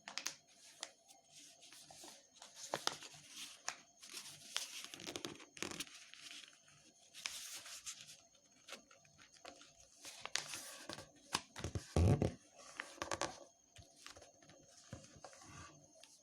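A sheet of paper being folded and creased: repeated rustling, sliding strokes with sharp crackles, and a heavier press about twelve seconds in.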